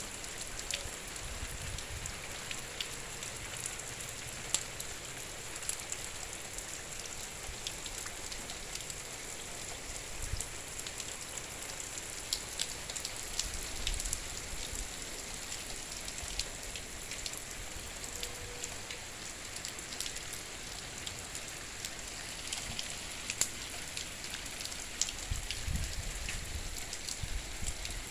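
Heavy rain falling steadily: a continuous hiss dotted with many sharp ticks of drops striking surfaces, with occasional low rumbles.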